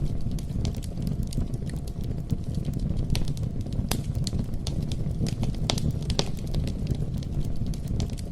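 Campfire burning with a steady low rumble of flame and irregular sharp crackles and pops from the wood, several a second.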